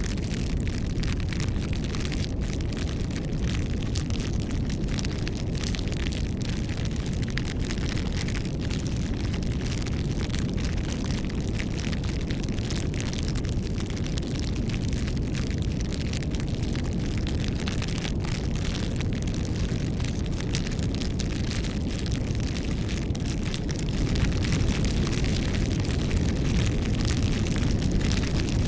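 Campfire burning: a steady low rumble of flames with many small crackles and pops from the burning wood, growing a little louder near the end.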